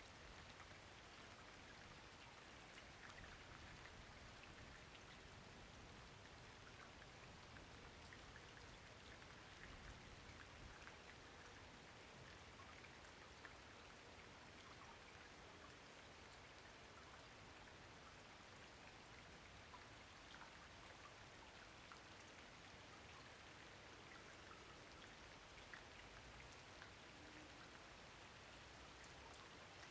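Faint, steady rain falling, with many small drops ticking here and there through the even hiss.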